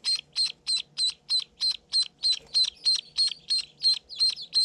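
Day-old duckling peeping loudly and steadily, the same high, short peep repeated about three and a half times a second.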